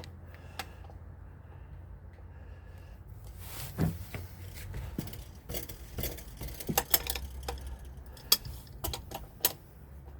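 Metal hand tools clinking: a ratchet wrench and socket knocking and clicking irregularly as they are fitted to a nut under a car, starting a few seconds in and coming thicker toward the end.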